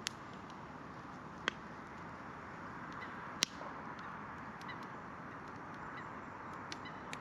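Wood campfire crackling: a steady hiss with three sharp pops, the loudest about three and a half seconds in, and a scatter of fainter ticks.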